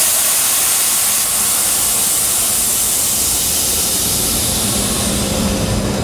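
Compressed air hissing out in a locomotive cab, a loud steady hiss that thins out near the end, typical of the driver's brake valve venting air during a brake application.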